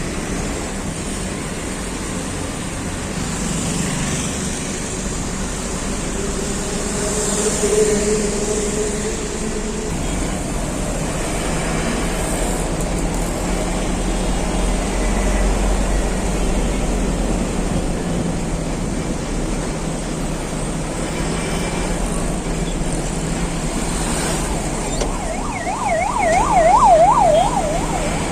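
Steady outdoor engine noise with a low rumble and hiss. Near the end a siren wails rapidly up and down for about two seconds, the loudest sound here.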